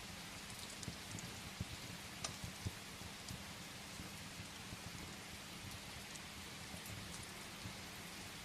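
Steady rain against a window, mixed with the scattered small clicks and soft low knocks of a crackling wood fire.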